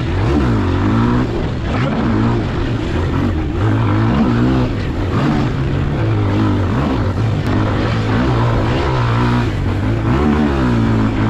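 Pit bike engine revving up and down over and over as the throttle is worked through the track's sections, its pitch rising and falling every second or two.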